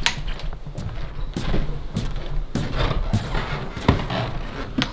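Footsteps on a hard floor, a sharp step about every half second to second, over a low steady rumble.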